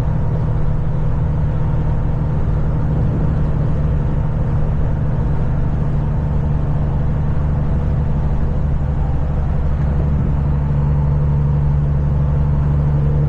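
Kenworth semi-truck's diesel engine running steadily at cruising speed, a constant low drone with road noise, heard from inside the cab.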